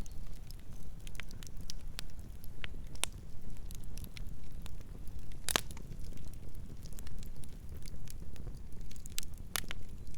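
Campfire burning with a steady low rumble and scattered sharp crackles and pops, the loudest pop about five and a half seconds in.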